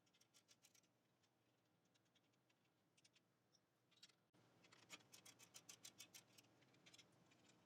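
Near silence with faint, rapid clicking, as from a hand ratchet working an exhaust mounting bolt. A few slightly louder ticks come about five to six seconds in.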